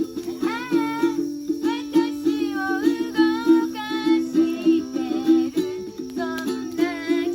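Ukulele strummed in a steady rhythm, with a voice singing a melody over it.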